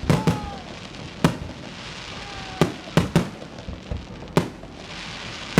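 Fireworks going off: a string of sharp bangs at irregular intervals, about eight in all, over a steady background crackle.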